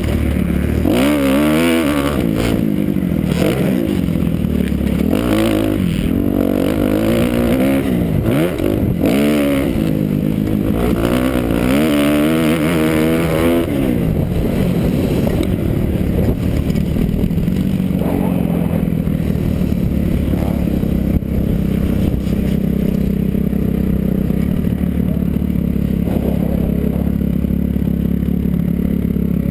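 Kawasaki KX250F four-stroke single-cylinder motocross engine revving hard, its pitch rising and falling quickly for about fourteen seconds, then settling to a steady, lower run.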